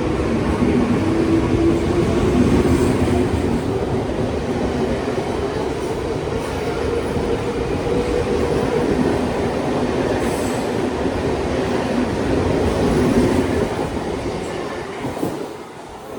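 Train running past on the rails: a steady, loud rumble of wheels with a low hum over it. The sound drops away sharply near the end.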